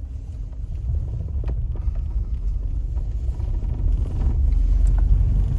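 Steady low rumble of a boat running across the water: wind buffets the microphone over the drone of the motor.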